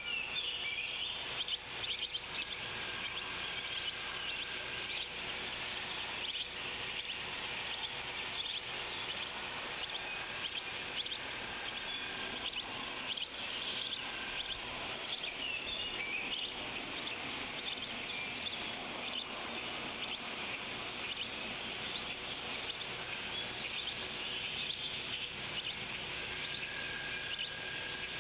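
Outdoor ambience of wild birds chirping and singing, many short overlapping calls, over a steady high-pitched hiss.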